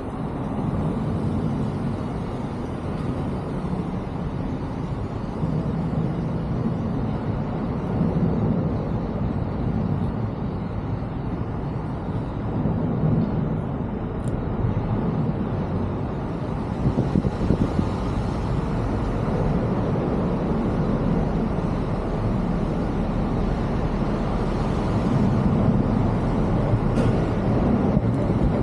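Steady low engine rumble with a hiss over it, swelling and easing a little in level.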